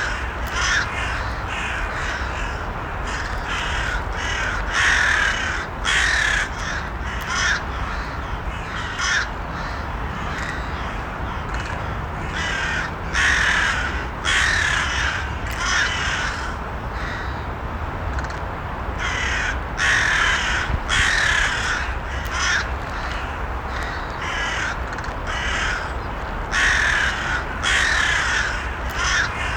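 Crows cawing over and over, harsh calls coming in clusters about every second, over a steady low background rumble.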